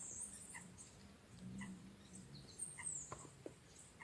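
Faint outdoor birdsong: high-pitched trills near the start and a short falling whistle near the end, with a softer note repeating about once a second.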